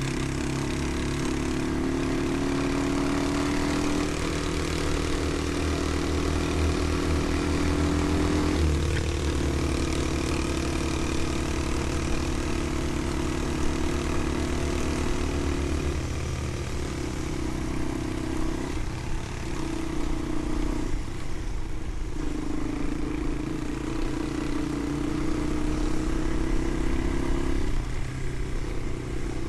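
Motorcycle engine running under way, with engine note dropping and picking back up several times as the throttle is rolled off and on or gears are shifted.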